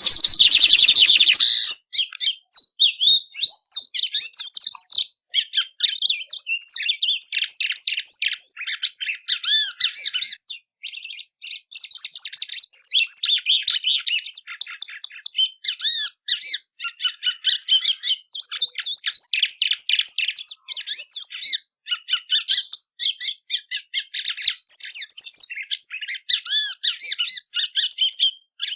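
A songbird singing a long, rapid, varied song of high chirps, whistles and trills, with only brief pauses. It opens with a loud, harsh burst lasting about a second and a half.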